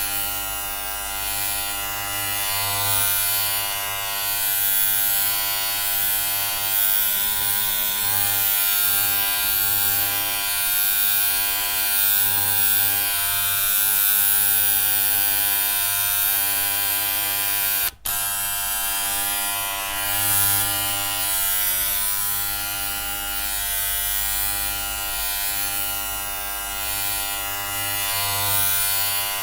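Electric hair clippers buzzing steadily, a dense hum of many even tones with hiss above, swelling and easing slightly; the sound cuts out for an instant once, partway through.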